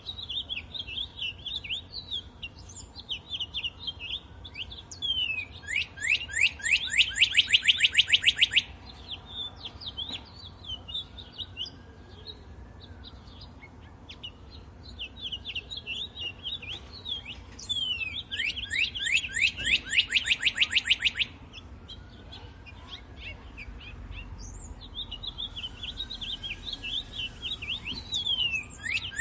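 Songbirds singing: one bird repeats a loud, rapid trill of quick repeated notes, each about two and a half seconds long, about twelve seconds apart. Softer chirps and short calls fill the gaps between the trills.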